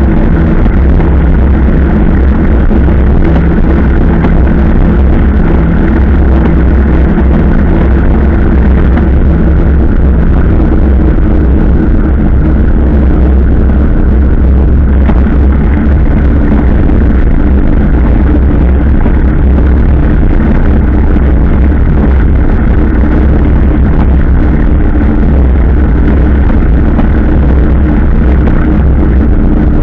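Motorcycle engine running steadily at cruising speed, heard from the rider's position.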